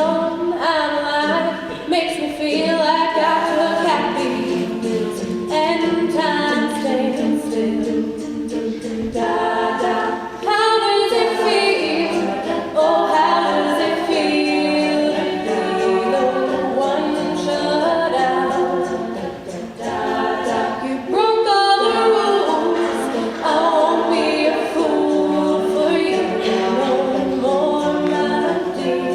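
A cappella vocal group singing in layered harmony, several voices and no instruments, with short breaks between phrases.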